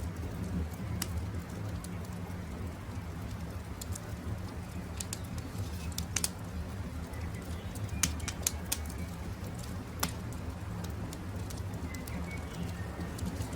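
Campfire burning with a steady low rumble and scattered sharp crackles and pops, a few louder snaps standing out, while birds chirp faintly in short calls.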